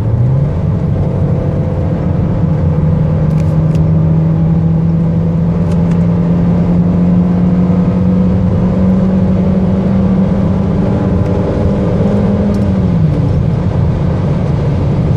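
2011 Chevrolet Cruze LT's four-cylinder engine under full throttle, heard from inside the cabin: the automatic kicks down and the revs jump, then climb slowly as the car accelerates hard from 100 km/h. The revs drop sharply about 13 seconds in as the gearbox shifts up, and once more near the end.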